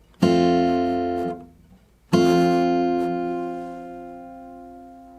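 Acoustic guitar strumming an F major barre chord twice: the first strum is damped after about a second, the second is left to ring and slowly fades away.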